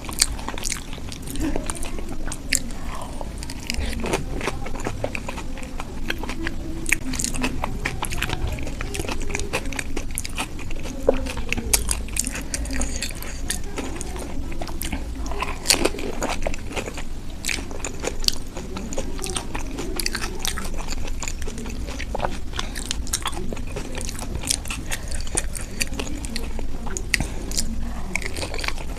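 Close-miked eating: crisp, yogurt-filled dahi puri shells being bitten and chewed, crackling and crunching again and again, with wet mouth sounds.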